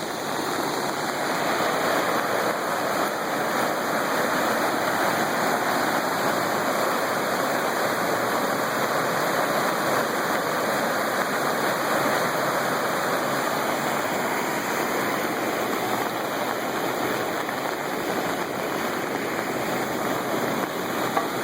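Flooded river water rushing steadily.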